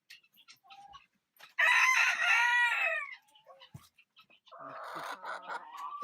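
Rooster crowing once, loud, about a second and a half in, the call falling at its end; quieter chicken calls follow near the end.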